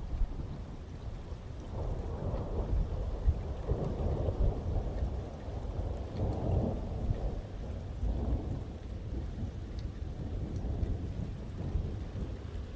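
Thunder rumbling in rolling waves over steady heavy rain; the rumble swells several times through the middle and then eases off.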